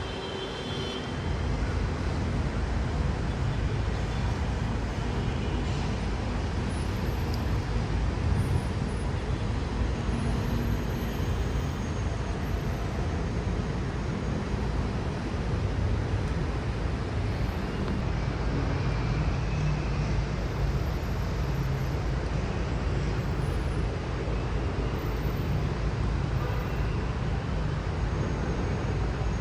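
Steady road traffic noise: a continuous low rumble of passing cars and buses.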